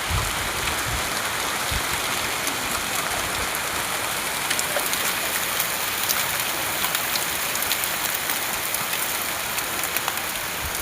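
Steady rain falling, an even hiss with many scattered sharp ticks of drops striking.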